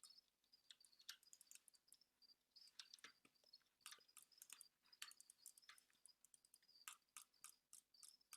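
Quiet, irregular clicking of computer keyboard keys and mouse buttons, several clicks a second.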